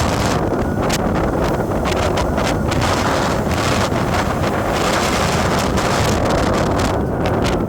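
Wind buffeting the microphone steadily, a loud low rumble with constant flutter, as on a moving vehicle.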